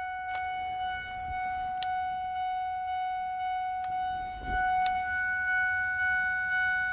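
A steady, unwavering high-pitched electronic tone, like a warning buzzer, with a few faint clicks and a soft low thump partway through.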